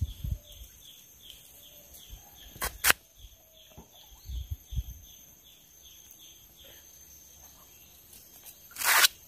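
Riverside ambience: a bird repeats a short, slightly falling high chirp about twice a second over a steady high whine. A couple of sharp knocks come about three seconds in, and a brief rushing noise comes near the end.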